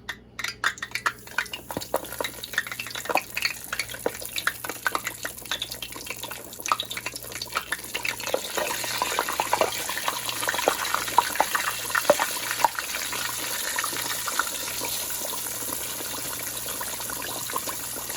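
Hot vegetable oil crackling and popping with frying chicken, thickening into a steady dense sizzle about eight seconds in.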